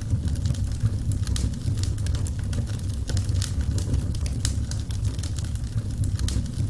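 Wood fire burning in a fireplace, crackling with many quick sharp snaps over a steady low rumble.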